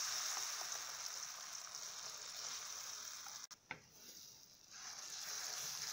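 Ground chana dal paste sizzling in hot ghee in a pan, a steady high hiss. It cuts off sharply about halfway through, stays quieter for about a second, then picks up again.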